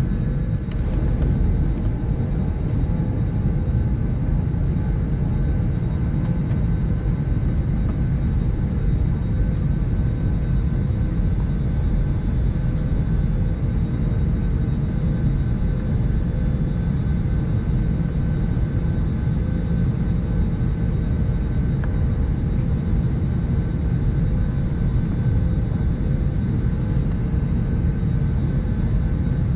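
Steady cabin noise inside an Airbus A321 on the ground after pushback: a continuous low rumble with faint steady tones over it.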